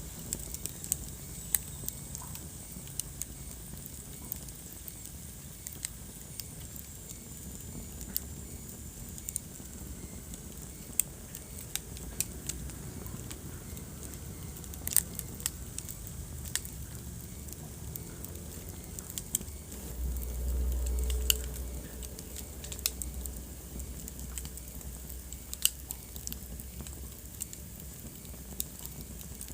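Wood fire crackling in a fireplace: irregular sharp pops and snaps over a steady low rumble of flame. The rumble swells briefly about two-thirds of the way through.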